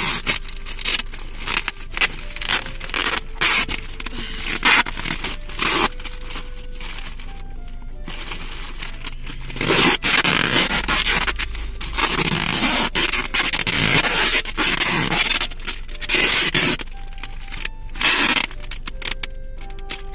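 Gift-wrapping paper being handled, scraped and torn in repeated noisy bursts, busiest in the middle stretch, over background music.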